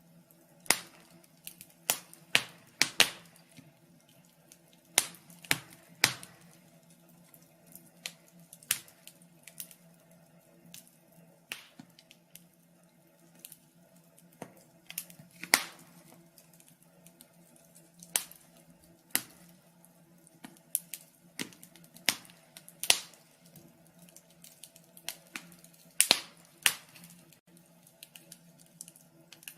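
Fire crackling: irregular sharp pops and snaps, some in quick clusters of two or three, over a faint steady hum.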